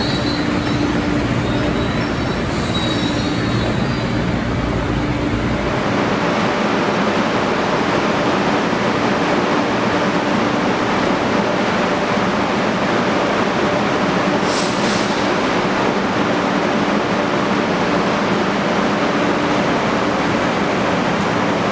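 Amtrak Acela trainset standing at the platform, its onboard equipment giving a steady hum and rush of noise. The deeper rumble drops away about six seconds in.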